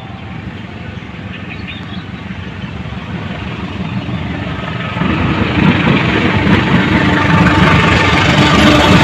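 Diesel-hauled train approaching, its locomotive engine rumble growing steadily louder, with a sharp step up about five seconds in.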